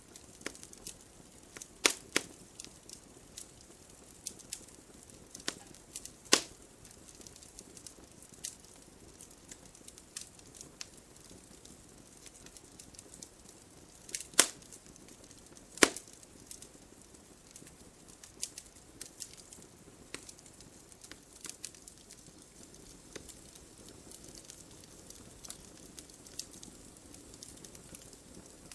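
Campfire burning, the wood crackling with irregular sharp pops over a soft hiss; a few pops stand out, about two seconds in, around six seconds in, and a pair near the middle.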